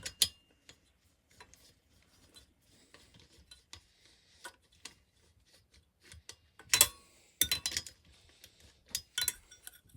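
Metal clinking, tapping and light scraping of hand tools, sockets and bolts against a small mower engine being dismantled: scattered small clicks, with a cluster of sharper clinks past the middle and another near the end.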